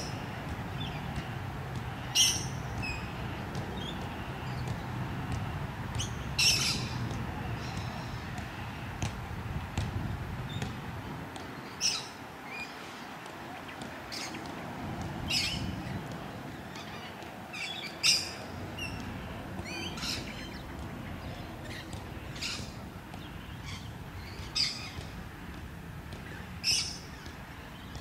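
Birds calling outdoors: short, sharp chirps every couple of seconds over a steady low rumble.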